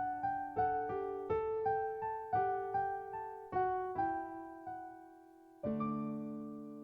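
Background piano music: a melody of single struck notes about three a second, growing softer, then a fuller chord struck near the end and left to ring.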